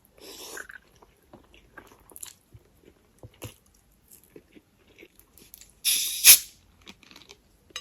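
A person eating close to the microphone: chewing with small wet clicks and crunches, with a short crunch near the start and a loud, crunchy bite or crackle about six seconds in.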